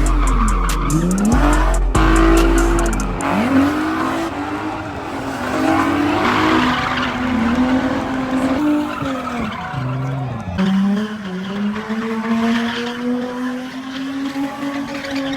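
A car engine revving up and down again and again, with tyre squeal, as a car drifts. In the last few seconds the revs settle to a steady, slowly rising pitch.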